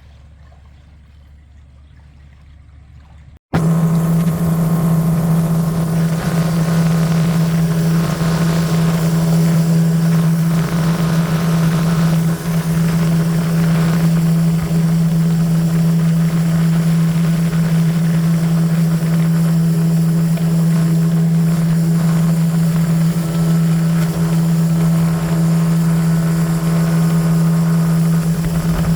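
Express river boat's engine running at a steady cruise: a loud, unchanging drone with a strong low hum and rushing noise. It cuts in abruptly a few seconds in, after a quieter low hum.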